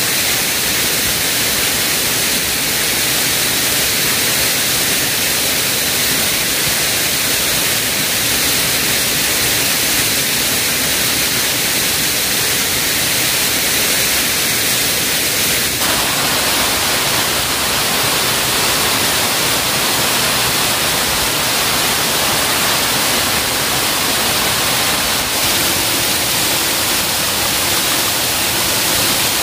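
Waterfall's steady rush of falling water. About halfway through it changes suddenly to a brighter hiss.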